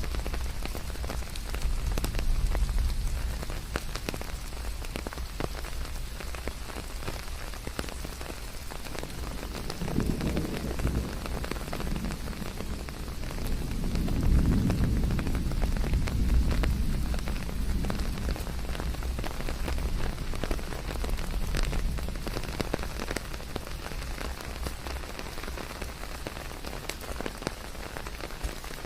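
Steady rain falling in a forest, a continuous hiss full of individual drops pattering, mixed with white noise. A low rumble swells up about ten seconds in and again around the middle.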